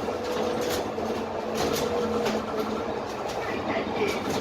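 Inside the lower deck of a Dennis Trident 12 m double-decker bus under way, with its Cummins ISMe engine and Voith automatic gearbox running. A steady drone carries a held whine that fades out a little past halfway, with scattered light rattles and knocks from the body.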